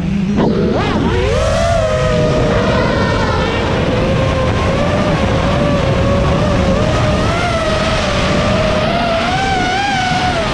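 FPV freestyle quadcopter's brushless motors and propellers whining, with a steady low rumble underneath. The pitch dips and rises quickly about a second in, then wavers gently up and down with the throttle.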